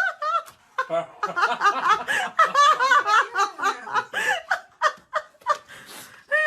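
High-pitched laughter in quick, short bursts, with a quieter pause about two-thirds of the way through.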